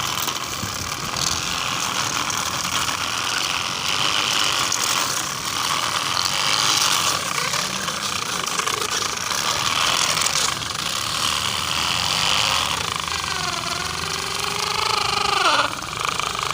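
Mini tractor loader's engine running steadily with a rattling mechanical clatter. Near the end, a wavering tone with several pitches dips and then falls away sharply.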